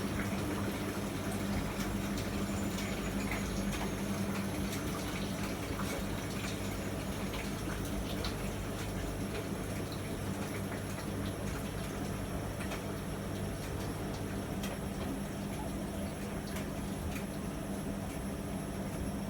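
Miele MedicWash W2585 washing machine running, with water rushing steadily into it under a constant low hum and scattered light clicks.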